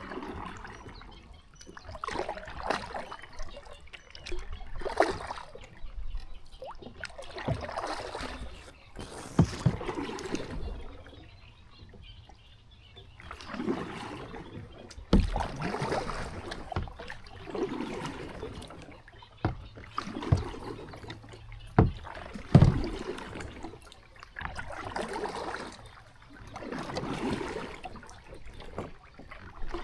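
Kayak paddle strokes: swishes and splashes of the blades in the water, one about every two seconds, with a short pause near the middle and a few sharp knocks, the loudest about two-thirds of the way through.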